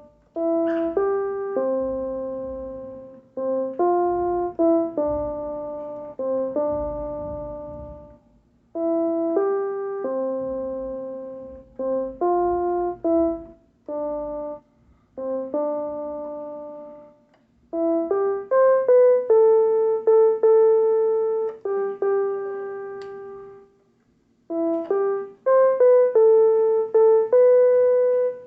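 Piano-toned keyboard playing a slow hymn melody mostly one note at a time. The notes strike and fade in short phrases, with brief pauses between phrases.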